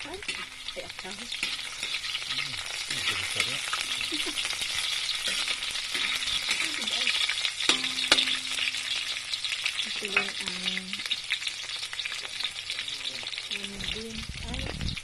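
Sliced onions and garlic sizzling and crackling in hot oil in a metal wok, stirred with a spatula, with one sharper knock about halfway through.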